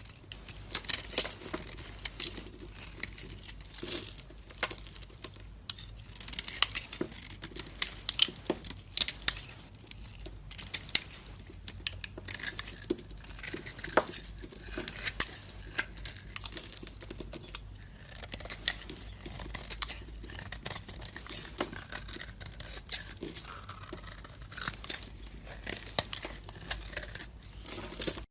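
Knife cutting and carving dry soap: crisp crackling and crunching, with many sharp little cracks, stopping suddenly at the end.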